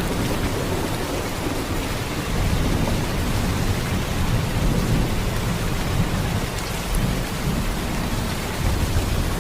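Heavy rain falling in a steady downpour, an even hiss with a deep low rumble underneath.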